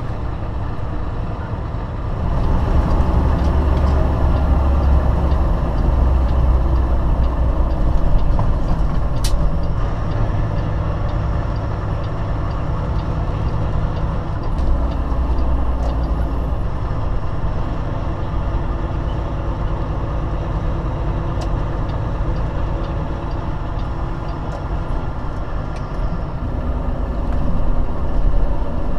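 Semi-truck's diesel engine running with a steady low rumble, louder from about two seconds in, with a sharp click around nine seconds.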